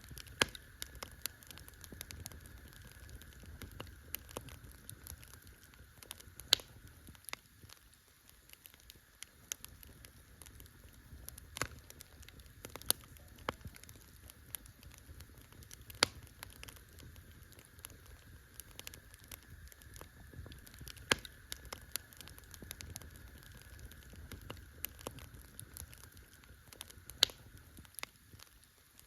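Campfire crackling: irregular sharp pops and snaps, about six of them much louder than the rest, over a soft low rumble.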